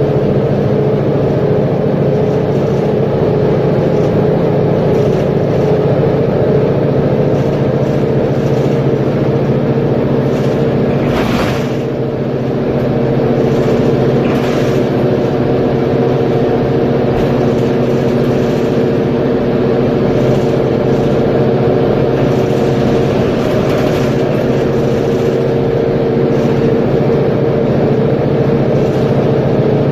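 Mercedes-Benz Conecto G articulated bus's OM457LA straight-six diesel engine running steadily at an even pitch, with a brief hiss about eleven seconds in.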